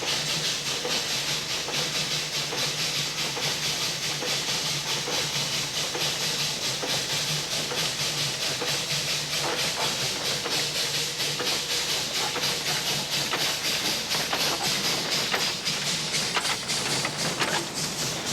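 Narrow-gauge plantation steam locomotive working, with a steady loud hiss of steam and rapid even exhaust beats; a few sharp clicks near the end.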